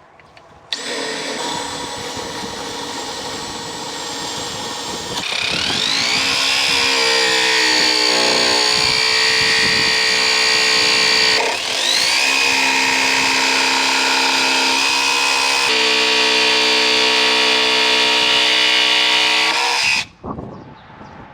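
An electric power tool's motor running steadily for nearly twenty seconds. Its pitch climbs twice as it speeds up, once after a short dip, and it then cuts off sharply.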